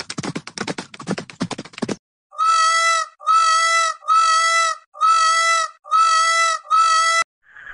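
A herd of horses galloping, a rapid clatter of hoofbeats that stops about two seconds in. Then a peacock (Indian peafowl) calls six times in a row, each call a loud, steady note lasting about two-thirds of a second, evenly spaced.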